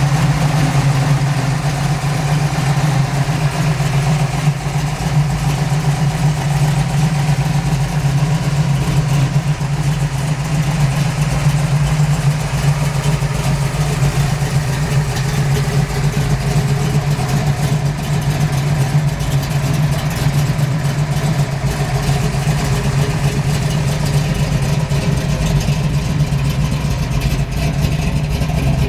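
1970 Dodge Challenger's 505 cubic-inch big-block wedge V8 idling steadily and loudly.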